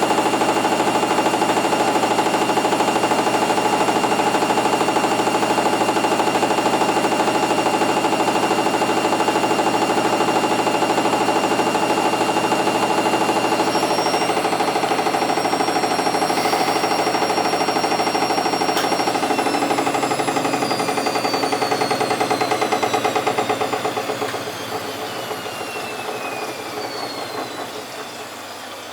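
Candy Energa 735 washing machine on its high-speed spin: a loud, steady whistling whine over a humming, rattling drum, with a hum the owner tags as drum-bearing noise. About two-thirds of the way in, the whine begins to fall in pitch as the drum slows, and the machine grows quieter near the end.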